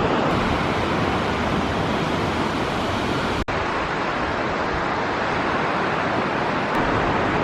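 Ocean surf washing onto the beach, mixed with wind buffeting the microphone: a steady rushing noise, broken by a split-second dropout about halfway through.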